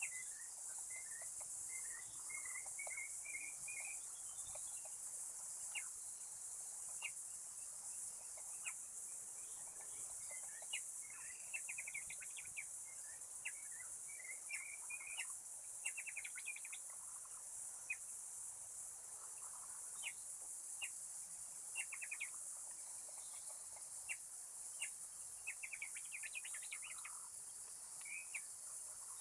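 Small birds chirping in short scattered calls and quick trills, over a steady high-pitched drone of insects.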